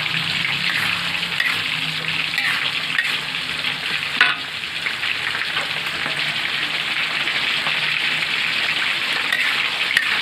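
Sliced jengkol with chilies sizzling in sweet soy sauce in a metal wok, stirred with a metal spatula. The hiss is steady, with one sharp clink about four seconds in.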